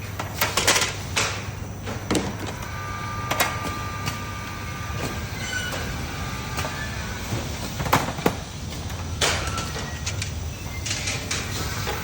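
Filter-production machinery running on a factory floor: a steady low hum with irregular sharp clacks and knocks, several of them close together about half a second to a second in and another pair about eight seconds in.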